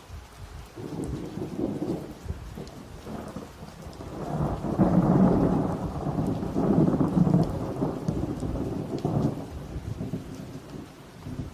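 Rolling thunder: one long rumble that builds about a second in, is loudest in the middle and dies away near the end, with rain falling throughout.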